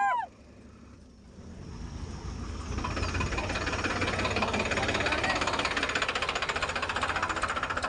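Tractor diesel engine dropping to a low hum, then building up from about a second and a half in and running hard with a rapid, clattering knock. A brief rising-and-falling pitched call sounds right at the start.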